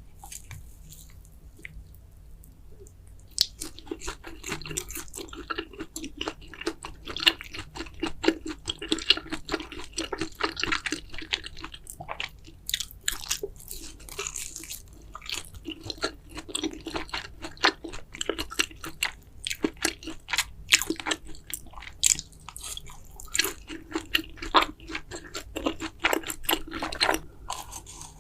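Close-miked eating: a person chewing mouthfuls of Carbo fire noodles, with dense wet clicking mouth sounds that start about three seconds in.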